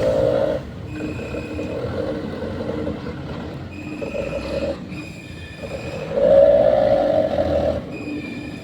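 Mitsubishi Canter dump truck running with its hydraulic tipping hoist working, a steady mechanical whine that swells louder twice, briefly at the start and for over a second about six seconds in.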